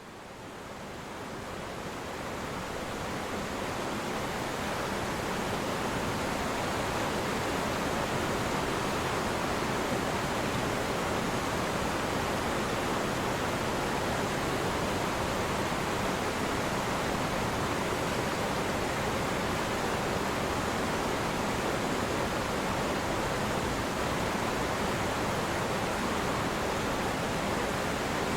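Fast-moving floodwater in a swollen river, a steady rushing noise that fades in over the first few seconds.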